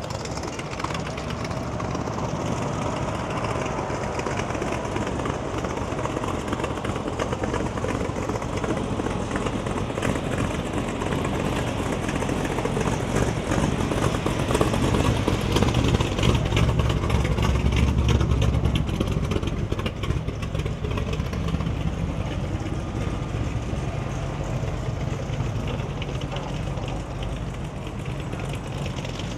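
A vehicle engine rumbling, swelling to its loudest about halfway through and then easing off, over a steady outdoor background hiss.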